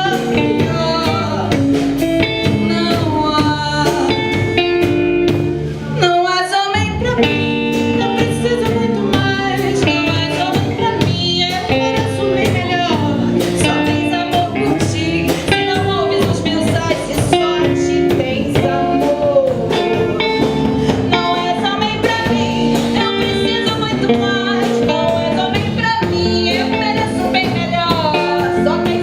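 Live band music: a woman singing over electric guitar, bass guitar and drums. The bass and drums drop out for a moment about six seconds in, then come back in.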